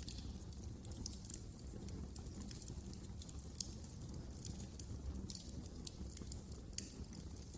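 Wood fire crackling in a fireplace: irregular sharp pops and snaps over a steady low rumble of flames, with one sharper pop near the end.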